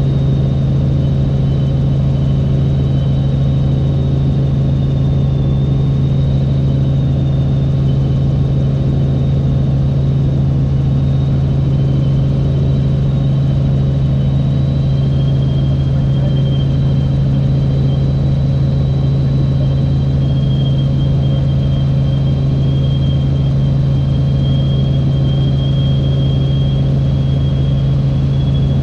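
Helicopter engine and rotors heard on board as a loud, steady drone, with a faint high whine running over it.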